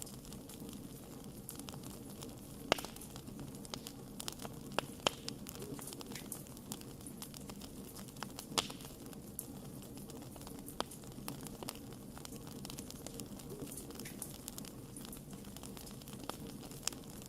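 Wood campfire burning: a steady low rumble of flames with irregular sharp crackles and pops, a few louder snaps scattered through.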